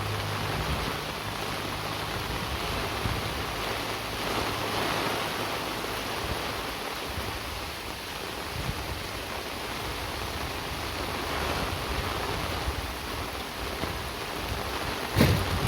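Steady rain falling, an even hiss with no pauses. A low engine hum fades out in the first second, and a single sharp knock sounds near the end.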